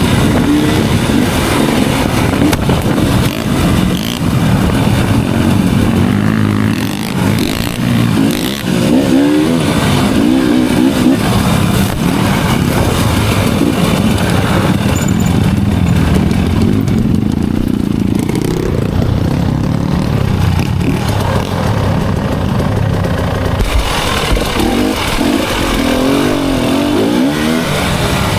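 Enduro dirt-bike engine running on a trail ride, its revs rising and falling as the rider works the throttle, with sharper revving about a third of the way in and again near the end.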